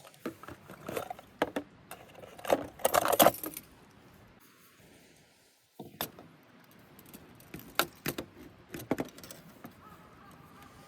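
A series of light clinks and knocks from small hard objects being handled, with a louder clattering spell about three seconds in.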